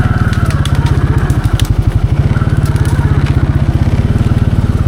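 Can-Am 700 XMR ATV engine chugging at low revs as the quad crawls along, with twigs and brush cracking and snapping under it.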